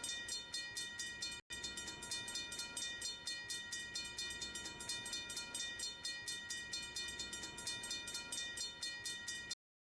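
A railroad bell ringing steadily at about three strokes a second, with a ringing metallic tone between strokes. It cuts off abruptly near the end.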